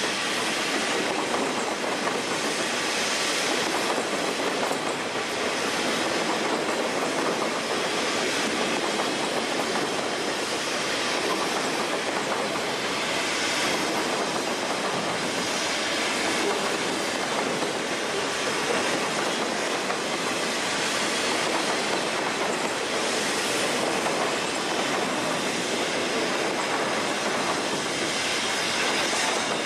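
Conrail intermodal freight train of highway trailers on flatcars rolling steadily past, its wheels running on the rails. The noise is even throughout, swelling faintly every few seconds as the cars go by.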